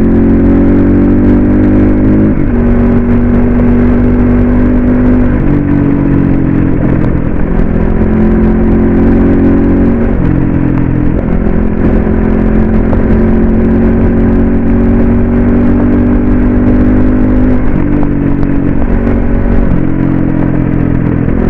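Crossfire RM 250 dirt bike engine running under way, its note holding steady for a few seconds and then stepping up or down to a new pitch several times as the throttle and gears change, over a steady low rumble.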